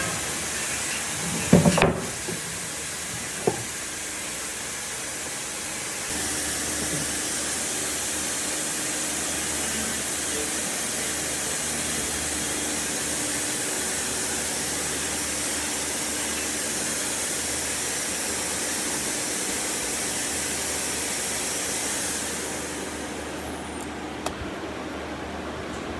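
A few sharp knocks, then a steady hiss that becomes quieter near the end.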